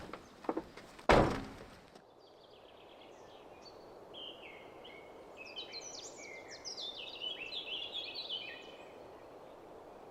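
A few sharp knocks, the loudest about a second in. Then, after an abrupt change, songbirds sing a run of quick, high chirping phrases over a faint outdoor hiss.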